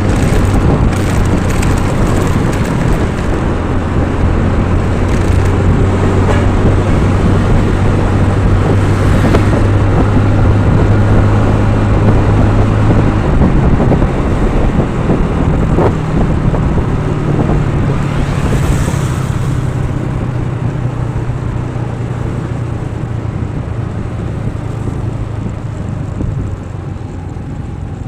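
A road vehicle's engine running steadily while travelling, with wind noise on the microphone. Its pitch steps up about halfway through, and the sound eases a little near the end.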